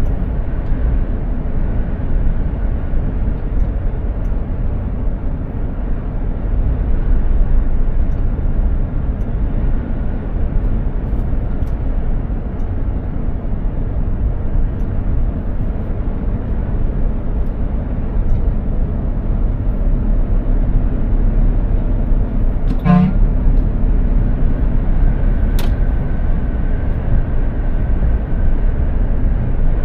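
Mercedes-Benz Actros 2763 heavy truck driving at speed: a steady, loud, low engine and road rumble. About three-quarters of the way through, a short pitched blip sounds once.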